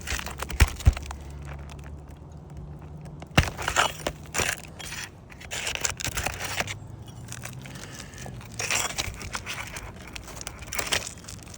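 A damaged roof shingle being worked loose and pulled free by hand, its sealed edge breaking away and the shingle scraping against the courses around it. The sound comes in irregular bursts, with sharp clicks about half a second in and again about three and a half seconds in.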